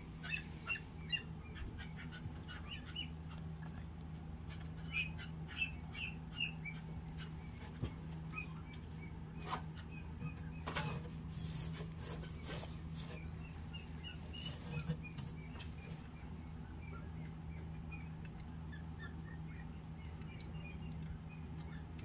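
Scattered short, high bird chirps in quick clusters over a steady low hum, with a few bursts of rustling straw in the middle as a hand works in the nest.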